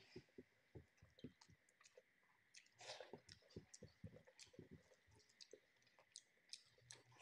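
Faint close-up chewing with wet mouth clicks and smacks, coming irregularly and densest about three seconds in, as a mouthful of rice and chicken is eaten. A hand mashes rice with dal gravy on a glass tabletop.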